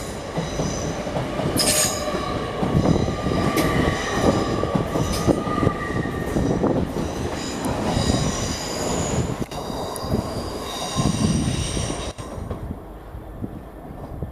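LNER Azuma express train pulling out of the station, its running noise accompanied by high-pitched wheel squeal from the rails. The sound drops away sharply near the end.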